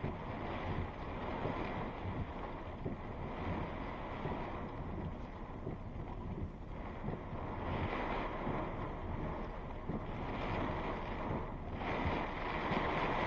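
Thunderstorm wind gusting hard, a continuous rushing that surges louder about two-thirds of the way in and again near the end, with wind buffeting the microphone.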